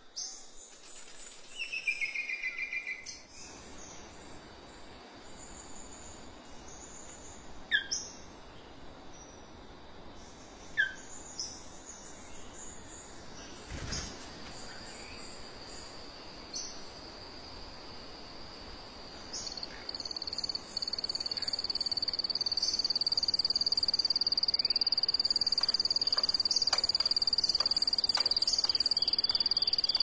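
Forest birds calling: a short trill, then a few sharp downward-sliding whistles and scattered chirps. About two-thirds of the way in, a steady high-pitched pulsing drone starts and becomes the loudest sound.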